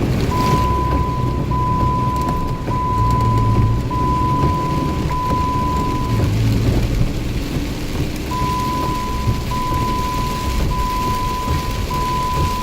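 Heavy rain with low rumbling thunder. A steady high-pitched electronic beep sounds in repeated tones of about a second each, stopping for about two seconds midway and then starting again.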